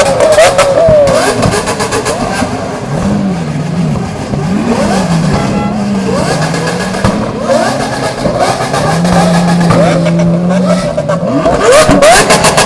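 Loud supercar engines being free-revved while parked, their pitch rising and falling in repeated blips with a steady idle between them. A fast, stuttering run of blips comes near the start and again near the end.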